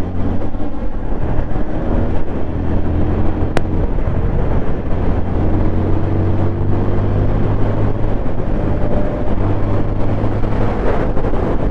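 200 cc single-cylinder motorcycle engine running under way at a steady cruise, its note shifting a little partway through.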